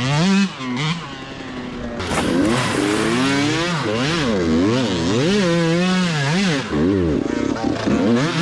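125cc two-stroke dirt bike engine revved hard and backed off over and over as it is ridden, its pitch climbing and falling about once a second. It eases off briefly near the start, then picks up again about two seconds in.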